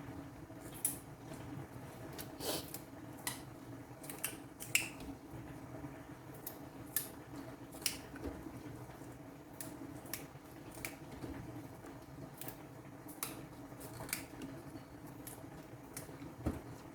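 Someone eating: irregular small clicks and smacks of chewing and utensils, about a dozen spread over the stretch, above a faint steady hum.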